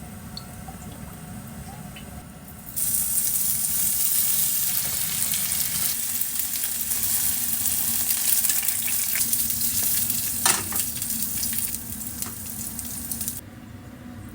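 Food sizzling in a frying pan, starting abruptly about three seconds in and cutting off near the end, with a single knock about ten seconds in. A low steady hum runs underneath.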